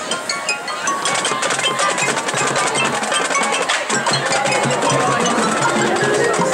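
Marching band music: mallet percussion such as bells and marimba rings out in quick struck notes over drums, with held low notes coming in about halfway through.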